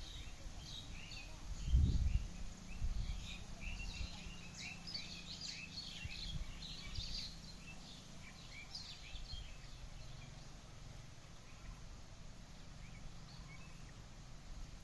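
Small birds chirping in a busy scatter of short, high calls that thin out after about nine seconds, over a low rumble. A dull low thump about two seconds in.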